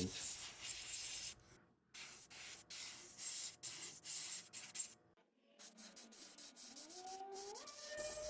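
Paint spraying onto a small diecast casting: a steady high hiss in bursts, cutting out briefly about two seconds in and again about five seconds in. A wavering, rising tone sounds near the end.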